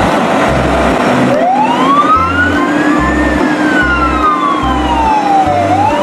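Emergency-vehicle siren: one slow wail that rises to a peak about halfway through, falls away gradually, then starts rising again near the end. Under it runs background music with a steady bass beat.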